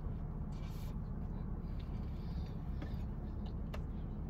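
Faint chewing and mouth clicks of someone eating a burger, a few scattered clicks, over a steady low rumble.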